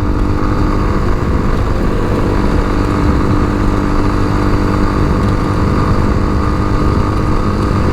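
Tao Motor TBR7 dual-sport motorcycle engine running at a steady speed while being ridden, with a constant low rush of wind and road noise.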